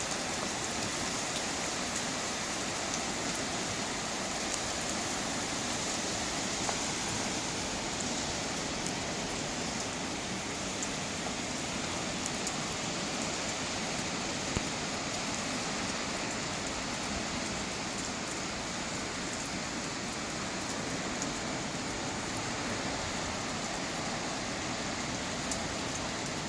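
Steady, even rushing noise of a coastal windstorm, wind and surf, with no buffeting on the microphone.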